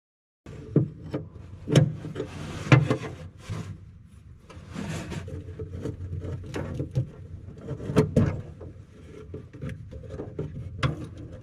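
Hand tools working on a metal cable adjuster and linkage: irregular sharp clicks and knocks with scraping and rubbing. The loudest knocks come about 1.5, 2.5, 8 and 11 seconds in.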